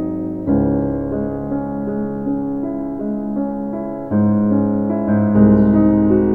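Background music led by piano or electric piano, sustained chords changing every second or so, with fresh chords struck about half a second in, near four seconds, and again a little after five seconds.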